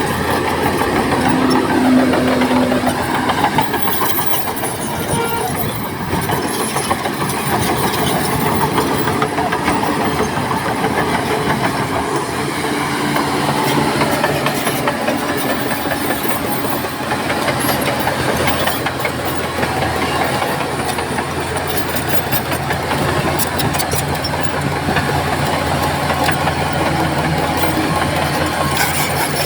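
Heavy diesel earthmoving machinery working: a loud, steady engine drone with hiss over it, its pitch shifting a few times as the load changes.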